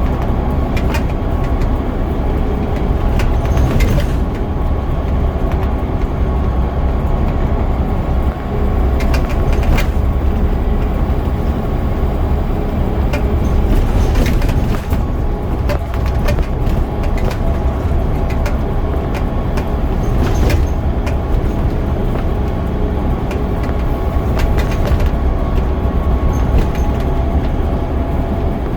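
Scania DC9 9.0-litre diesel engine of a double-decker bus running at a steady speed while the bus is under way, heard from on board, with a few short clicks and rattles from the body.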